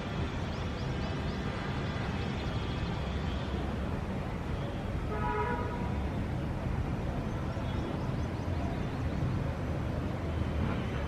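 Steady rumble of city street traffic, with a short car horn toot about five seconds in. Faint bird chirps can be heard over the traffic in the first few seconds.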